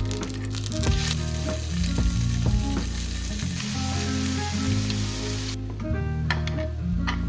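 Food sizzling in a hot pan, a steady hiss that stops suddenly about five and a half seconds in, over background music with a bass line.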